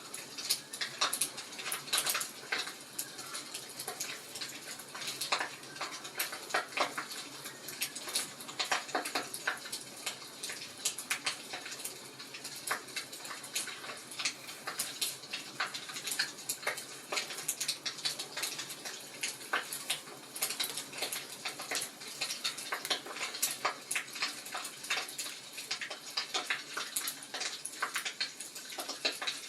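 Wood fire crackling: a steady run of irregular sharp pops and snaps over a soft hiss.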